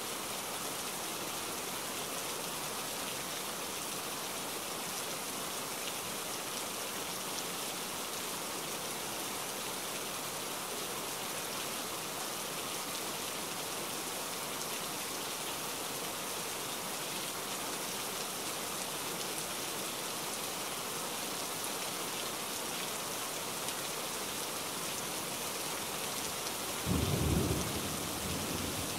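Steady rain falling and splashing on wet paving stones, with one brief, loud, low thump about a second from the end.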